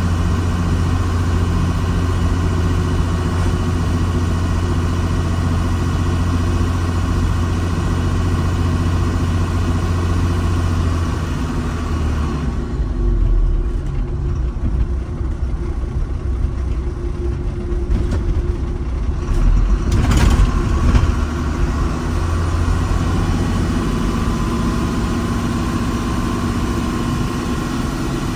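Diesel engine of heavy earthmoving equipment running steadily with a deep hum. Partway through its sound eases off for several seconds, a sharp knock comes about twenty seconds in, and then it runs fuller again.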